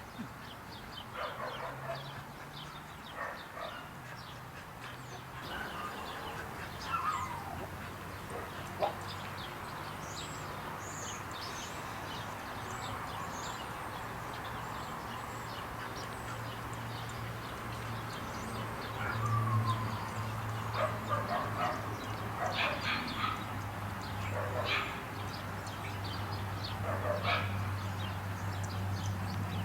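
Dogs at play giving scattered short yips, barks and whines, some falling in pitch, over a steady low hum.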